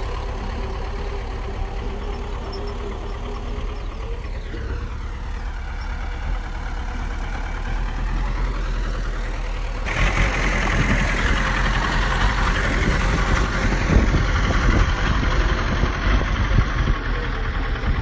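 Bulldozer's diesel engine running steadily; about ten seconds in the sound turns abruptly louder and harsher, with short knocks through it.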